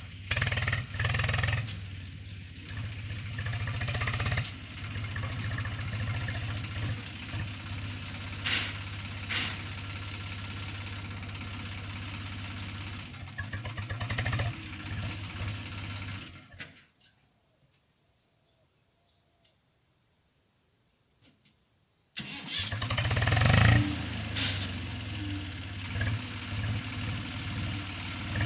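Tractor diesel engine running steadily, then going quiet about two-thirds of the way through; several seconds later it starts up again with a loud burst and keeps running.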